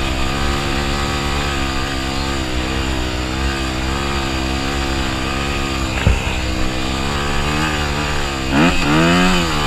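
Dirt bike engine running under load through thick sand, its pitch wavering with the throttle, with a sharp knock about six seconds in and a quick rev up and back down near the end. Wind rumbles on the microphone.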